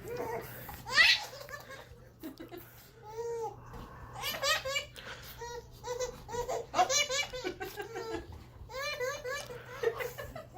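A baby laughing in several bursts of giggles and belly laughs, with a high rising squeal about a second in.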